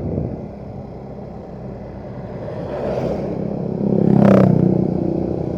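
Motorcycle riding in traffic: engine and road noise, with a louder vehicle passing close about four seconds in.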